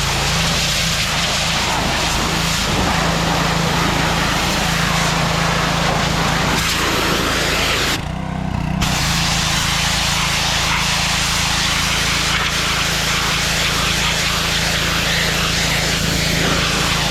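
A motor running steadily under a loud rushing noise, with a brief drop in level a little past the middle.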